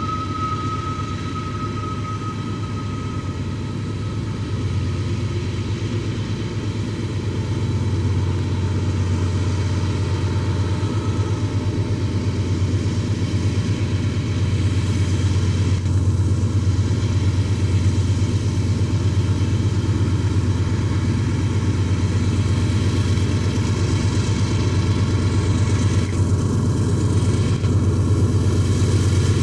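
Diesel locomotives hauling a loaded iron-ore train, a steady low engine rumble that grows gradually louder. A thin high tone fades out in the first few seconds.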